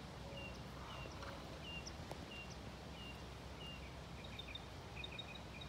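Small birds chirping over a steady low outdoor background hum: short high chirps about twice a second, turning into quicker clusters of two or three chirps in the second half.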